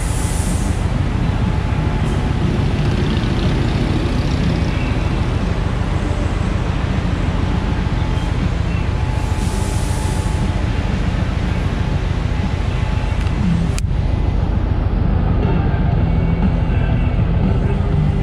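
Indian touring motorcycle's V-twin engine idling with a steady low pulsing, and a single sharp click about three-quarters of the way through.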